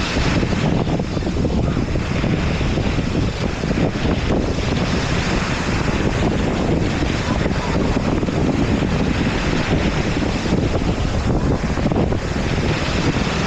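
Wind buffeting the microphone over ocean surf washing in, a steady rough noise heaviest in the low end.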